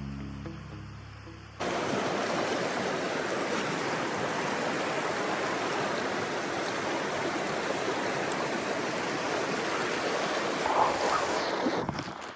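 Steady rush of flowing water from a woodland stream, cutting in suddenly about a second and a half in as background music fades out.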